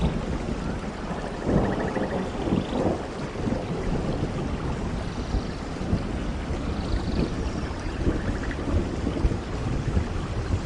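Steady heavy rain in a rainforest, a dense hiss of drops with a low rumble underneath. Faint pulsed chirps come through twice.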